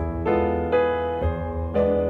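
Background piano music: soft chords and notes played at an unhurried pace, with a new note or chord about every half second.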